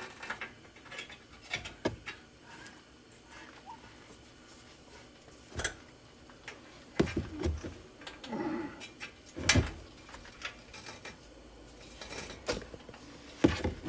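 Scattered metallic clinks and knocks of tools and brake parts being handled, separated by quiet stretches, with a few louder knocks in the second half.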